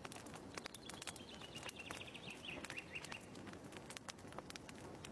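Fireplace crackling, with irregular sharp pops and snaps throughout. A bird's short trill descends in pitch starting about a second in.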